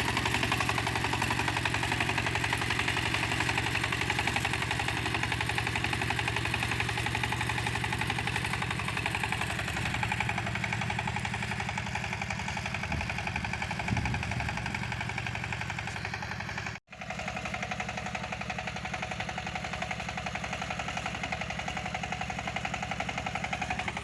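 Walking tractor's engine running steadily as it pulls a plough through muddy clay soil. The sound drops out for a split second about two-thirds of the way through.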